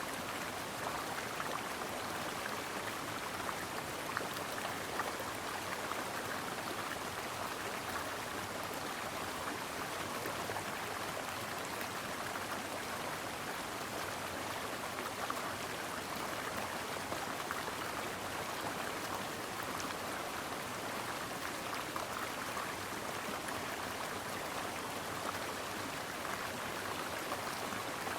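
Stream water flowing and splashing over rocks in a steady, unbroken rush with small scattered splashes.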